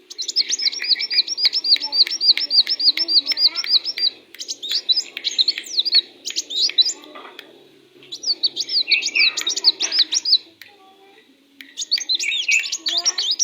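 Sunbird singing energetically: a fast run of high, sharp chirps at about six a second, then varied twittering phrases in bouts with a short pause near the end.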